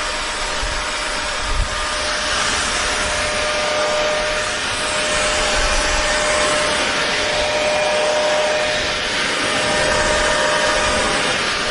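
Hair dryer running steadily: a constant rush of air with an even motor whine.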